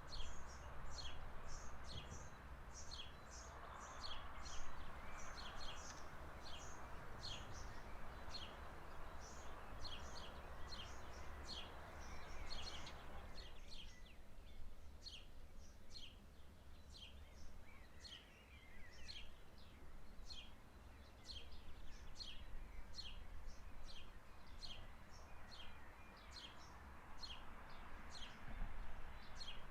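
A bird calling over and over with short, high, falling chirps, about one or two a second, over a soft rushing hiss that drops away about halfway through.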